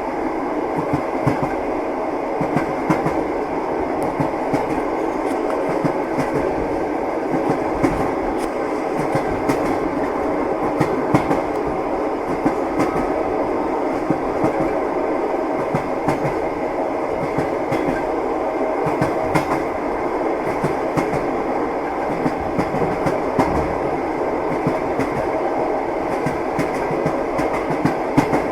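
Passenger train running steadily, heard from inside the carriage: a constant rolling rumble with the clatter of the wheels over the rails and scattered sharp clicks.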